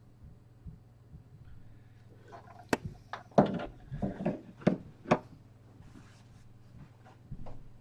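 A burst of sharp knocks and clicks, like small objects being handled and set down on a hard surface, about two to five seconds in, with a few fainter clicks after. A faint steady low hum runs underneath.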